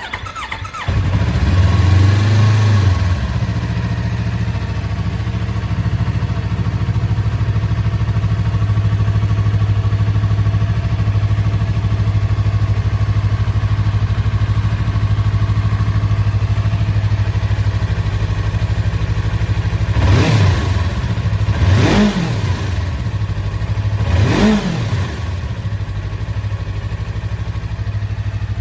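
Yamaha YZF-R25's 249 cc parallel-twin engine starting up, running a little higher for the first couple of seconds, then idling steadily. About twenty seconds in it is blipped three times, each rev rising and dropping back to idle.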